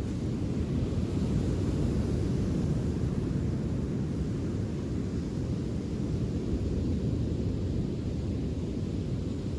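Steady low rumble of outdoor beach ambience, even throughout, with no separate crackles or pops standing out.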